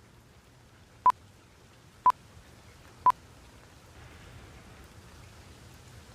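Three short electronic countdown-timer beeps at one pitch, one a second, over a faint steady rain noise that grows a little louder after the beeps.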